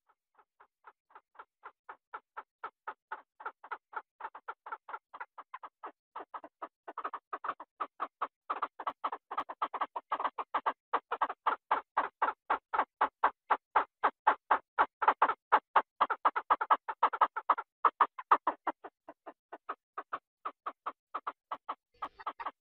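A duck quacking in a long, rapid run of short calls, about five a second, growing louder over the first ten seconds or so.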